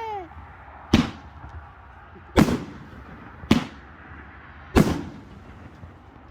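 Four loud firework bangs, a second or so apart, each trailing off in a short echo. A falling whistle fades out just at the start.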